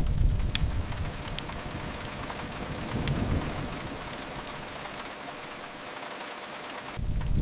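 Steady rain on a window mixed with a crackling fireplace, its crackles coming as scattered sharp pops. A low rumble swells in the first second or so, again about three seconds in, and near the end.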